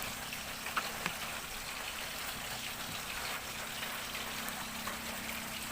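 Heavy rain falling steadily, an even hiss, with a couple of faint clicks about a second in.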